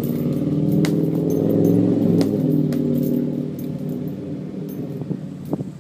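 A motor vehicle's engine drone that swells, peaks about two seconds in, then fades away as it passes. A few sharp clicks and jangles sound over it.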